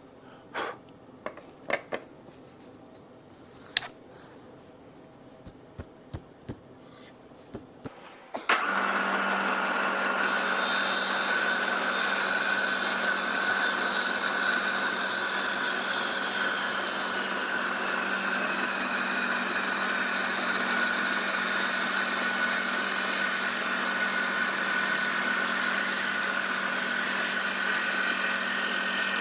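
A few clicks and knocks of steel plate being handled and flipped, then about eight seconds in a power tool starts and runs steadily on the 8-gauge steel friction-disc blank, a constant hum under a strong hiss that grows louder a second or two after starting.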